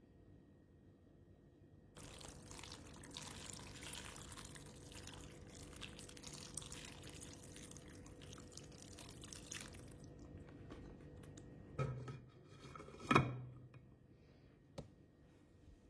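Water running or pouring as a steady hiss for about eight seconds, stopping, followed by two knocks and a small click.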